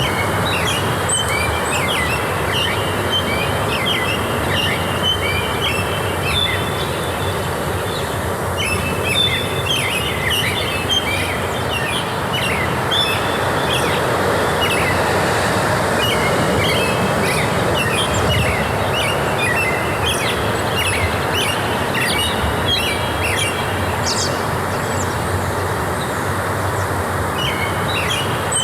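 Forest ambience: many small birds chirping in quick runs over a steady rushing noise.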